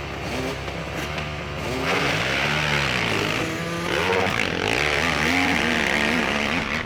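Hill-climb motorcycle engine revving hard, its pitch rising and falling repeatedly as the throttle is worked, getting louder about two seconds in.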